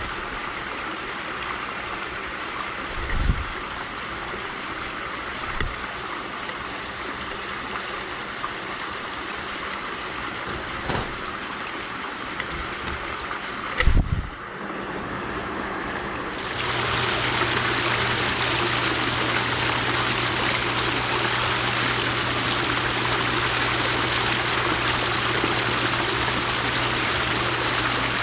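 Steady outdoor background hiss with a few soft thumps in the first half and a few faint, brief high chirps. About sixteen seconds in, the hiss gets louder and a low steady hum joins it.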